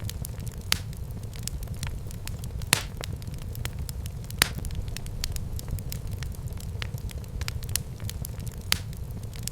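Fire in a fireplace crackling: a steady low rumble with scattered small crackles and a few sharper pops, the strongest about two and a half and four and a half seconds in.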